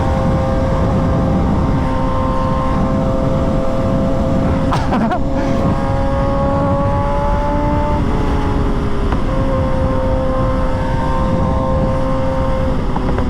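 Motorcycle engine running steadily while riding, over a heavy low rumble. Its pitch creeps up, then steps down about eight seconds in.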